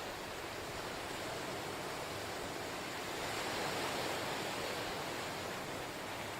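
Ocean surf washing on the shore in a steady hiss, swelling a little about halfway through and then easing.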